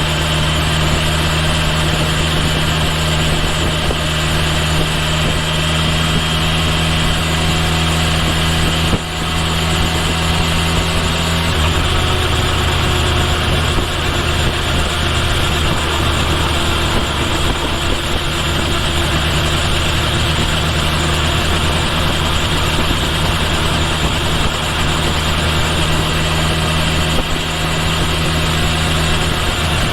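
Kawasaki Ninja H2 SX motorcycle's supercharged inline-four engine running at a steady, unchanging speed, mixed with road and wind noise, heard from near the bike's rear turn signal.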